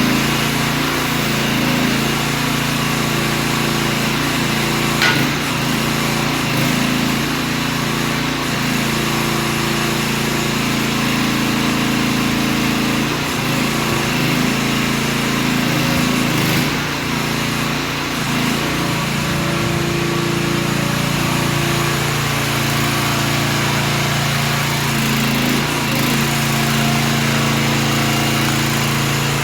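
Mini excavator's 13.5 hp Briggs & Stratton engine running steadily, with a brief sharp click about five seconds in.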